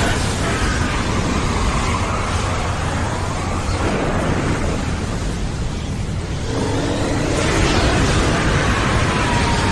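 Tornado wind sound effect: strong, gusting wind with a deep rumble underneath and faint whistling tones that slide up and down. It swells a little louder about two-thirds of the way through.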